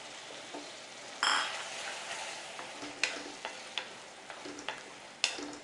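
Raw chicken pieces frying in hot tomato-onion masala in a metal kadai, stirred with a wooden spatula: a steady sizzle with a louder rush about a second in, then a few sharp knocks of the spatula against the pan, the loudest near the end.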